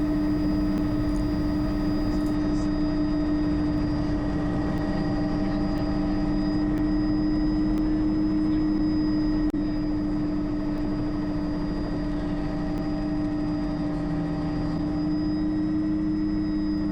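Bell JetRanger helicopter heard from inside the cabin in flight: a steady drone of engine and rotors with a thin high whine above it.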